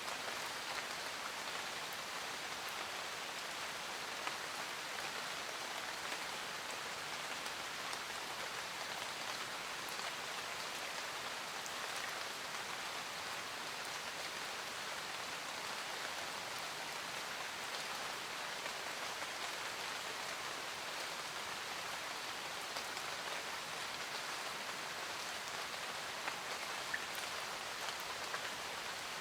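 Steady rain falling, a continuous patter with small scattered drop ticks.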